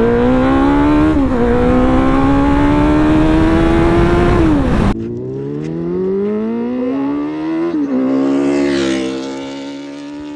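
Suzuki Hayabusa's inline-four engine under hard acceleration, its pitch climbing in each gear and dropping at upshifts about a second in, near five seconds and near eight seconds, then easing off near the end. Heavy wind rush on the microphone covers the first half and stops abruptly at the second shift.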